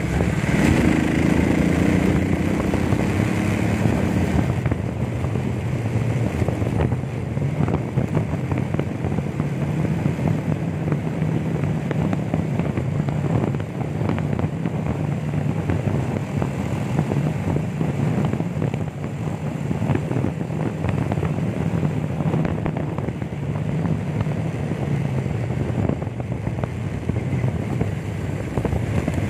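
Small motorcycle engine running while riding along a road. It climbs in pitch over the first few seconds as it accelerates, then holds a steady drone, with wind and road noise on top.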